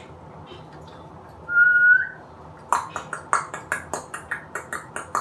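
A single short whistle, one clear note rising slightly at the end, followed by a quick run of sharp taps, about five a second.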